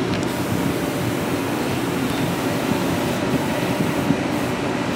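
New Jersey Transit Arrow III electric multiple-unit car pulling slowly in beside the platform, giving a steady rumble and hum.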